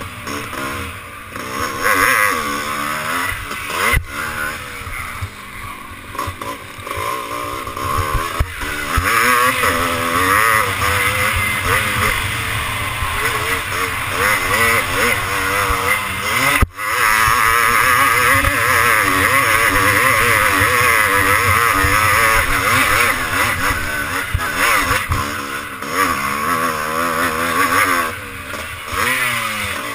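Classic twinshock motocross bike's engine at race pace, its pitch rising and falling constantly as the throttle is opened and shut, with brief dips about four, eight and seventeen seconds in.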